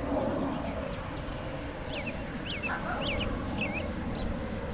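A bird chirping: about five quick high chirps starting around two seconds in, over a steady low rumble of outdoor noise.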